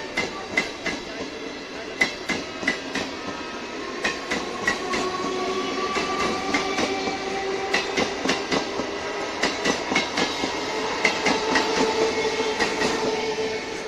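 Electric suburban local train (EMU) running by, its wheels clicking over rail joints in quick groups. Under the clicks runs a steady whine that slowly drifts in pitch.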